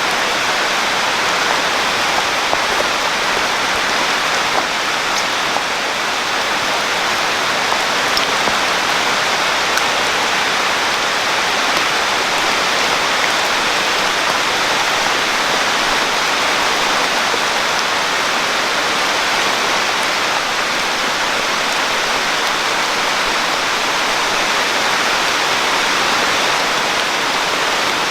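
Steady rain falling: a dense, even hiss with an occasional faint tick of a single drop.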